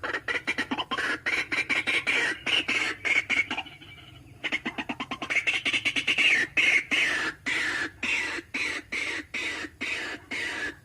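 White-breasted waterhen (ruak-ruak) calling: a fast run of repeated call notes, about five a second, with a short pause about four seconds in, played as a lure call.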